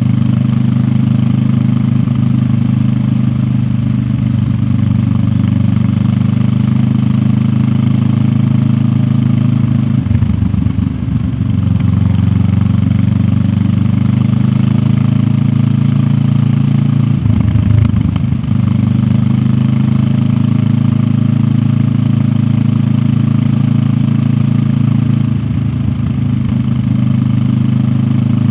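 QJ Motor SRT 700X motorcycle engine running steadily under way, heard from a recorder carried in the rider's backpack. Its note briefly breaks and changes three times, about ten, seventeen and twenty-five seconds in.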